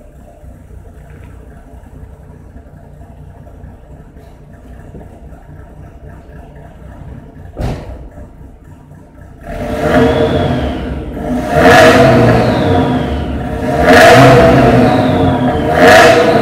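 BMW E36 1.6's four-cylinder engine idling quietly through its exhaust, with a short thump partway through, then revved hard four times about two seconds apart.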